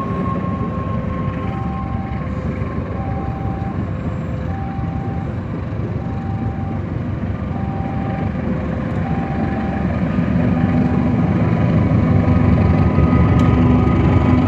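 KAI CC201 diesel-electric train running with a steady rumble that grows louder from about two-thirds of the way in. Over it, a two-tone electronic warning signal alternates high and low at an even pace, about one tone every three-quarters of a second.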